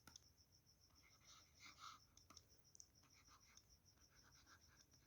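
Near silence, with faint scratching and ticks of writing, clearest about a second and a half in.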